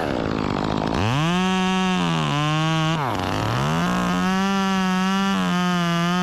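Two-stroke chainsaw running at high revs while cutting a notch in a tree, its pitch sagging as the chain loads in the wood, most deeply about three seconds in, then climbing back.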